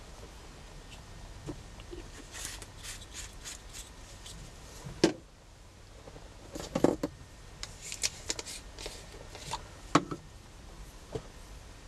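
Paper and craft materials being handled on a tabletop: bursts of paper rustling and shuffling, with three sharp knocks of something set down or pressed onto the table.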